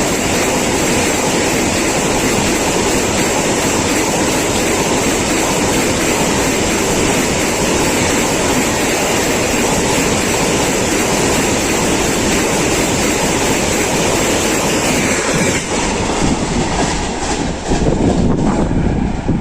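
Indian Railways express train passing at high speed, a loud steady rush of coaches with wheels clattering over the rail joints. About fifteen seconds in the sound turns uneven and gusty.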